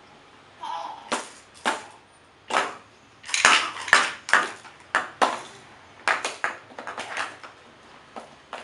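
A baby banging a toy on a hard surface: a long run of sharp knocks at an uneven pace, roughly two a second, loudest around the middle.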